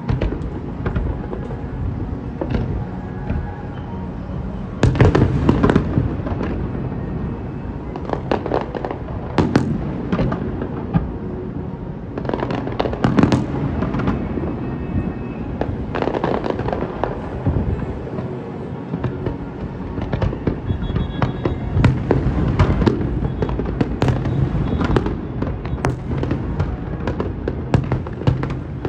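Fireworks display bursting, with many sharp bangs and crackles in quick succession over a continuous rumble. The loudest cluster of bursts comes about five seconds in.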